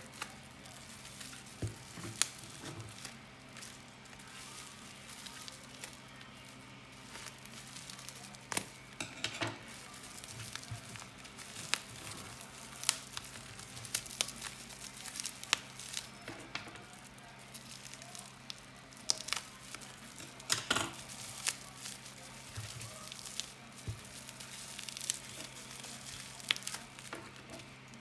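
Packaging being handled: crinkling with scattered sharp clicks and taps, over a steady low electrical hum.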